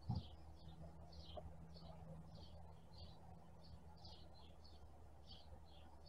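A small bird chirping over and over, short high chirps about two a second, over a faint low hum. A brief low thump just after the start is the loudest sound.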